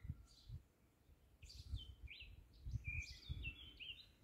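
Small songbirds chirping in quick runs of short, sliding notes, busiest in the second half, with a few irregular low thuds underneath.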